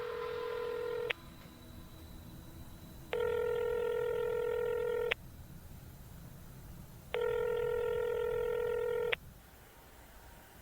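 A phone ringing: an electronic ring tone sounding in steady two-second rings, with about two seconds of quiet between rings. One ring is ending just after the start, and two more full rings follow.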